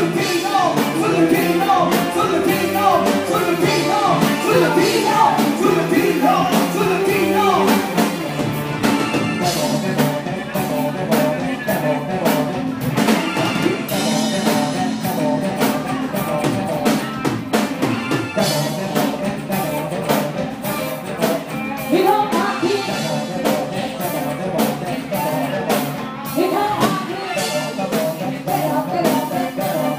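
A band playing rock music with a drum kit and a melodic lead over it, somewhat louder in the first eight seconds and a little softer after.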